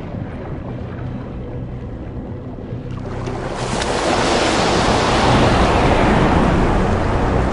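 Sea water surging and breaking. A rushing wash builds from about three seconds in and stays loud.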